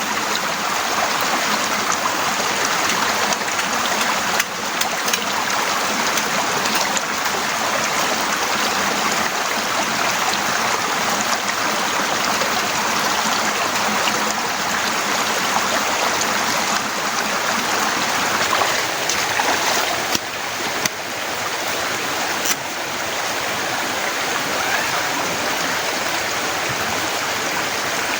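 Heavy rain falling steadily, a dense even hiss with a few sharper taps of drops here and there.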